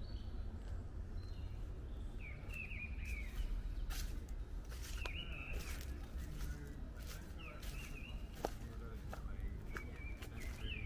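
Small birds chirping in short, repeated calls over a low, steady background rumble, with scattered footsteps on a path.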